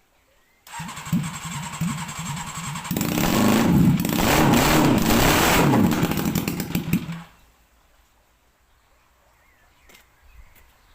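Honda engine of a racing lawn mower starting suddenly about a second in and running unevenly for about two seconds. It is then revved louder and higher for about four seconds before it cuts off.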